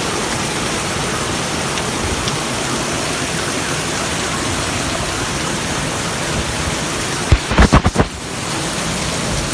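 Heavy rain pouring down in a steady hiss. A little over seven seconds in, a quick run of several loud, low thumps breaks through, after which the rain sounds slightly quieter.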